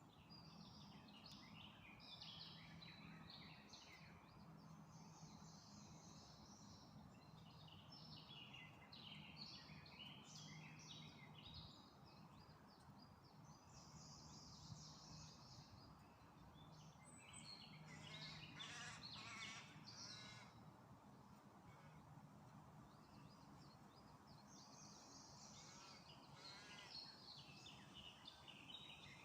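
Faint birdsong: several songbirds singing in short, high chirping phrases that come and go, over a steady low hum.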